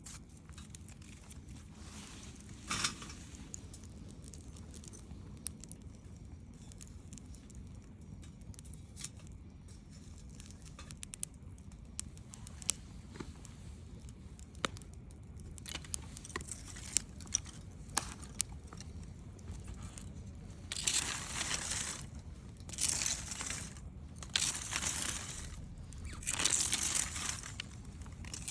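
Wood campfire crackling, with scattered sharp pops and snaps: a loud one about three seconds in and a cluster in the middle. In the last third come several second-long bursts of louder, rustling crackle.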